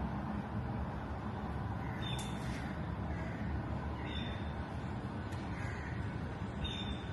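A bird calling three times, short high calls about two seconds apart, over a steady low background rumble.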